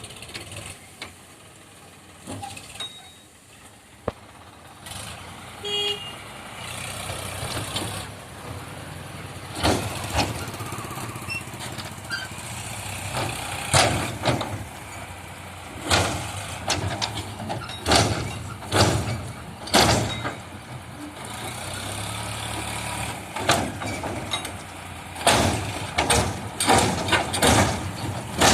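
Eicher 548 tractor's diesel engine running under heavy load with a steady low drone, stuck with a loaded trolley behind it. Loud, sudden bursts of noise break in again and again, coming thick and fast near the end.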